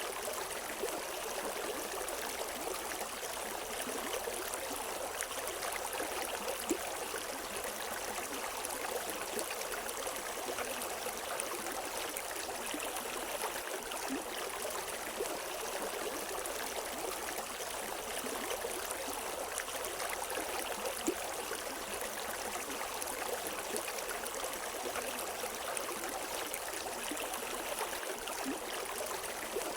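River water flowing and babbling over rocks: a steady rush of running water with small splashes and gurgles, no birds.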